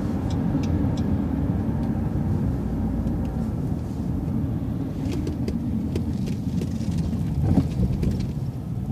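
A city transit bus's engine and road noise heard from inside the bus, a steady low rumble with scattered light clicks and rattles, more of them in the second half.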